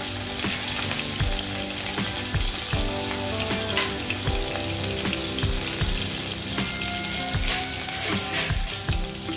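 Cumin seeds and chopped green chillies sizzling and crackling in hot oil, with background music that has a steady beat playing underneath.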